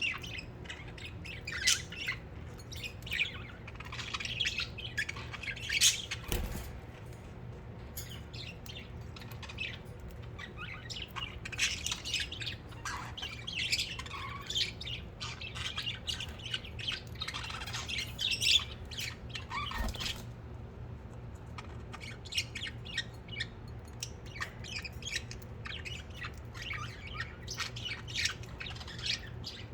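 Several budgerigars chattering and chirping continuously in quick, short calls, over a steady low hum. There are two brief low thumps, one about six seconds in and one near twenty seconds.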